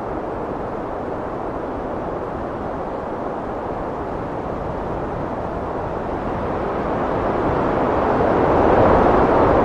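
Heavy wind blowing steadily, swelling into a louder gust near the end.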